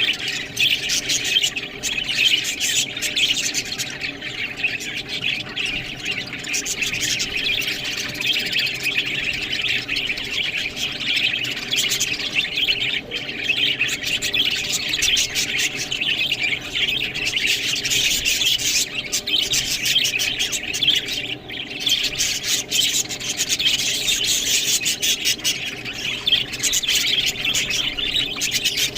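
Budgerigars chattering and chirping without pause, a dense flock warble with many sharp clicks mixed in.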